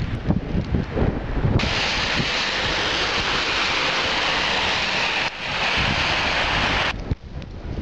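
Blizzard wind buffeting the microphone in gusts, giving way about one and a half seconds in to a steady rushing hiss, like surf, that holds for about five seconds before the gusty buffeting returns near the end.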